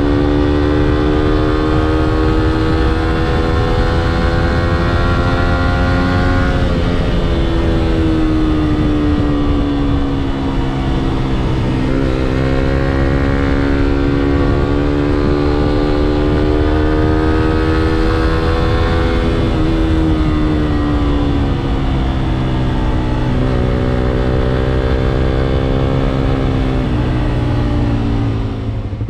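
Suzuki GSX-S125 single-cylinder engine under way, its pitch climbing and sinking with the throttle and dropping sharply about seven seconds in at a gear change, over heavy wind rush.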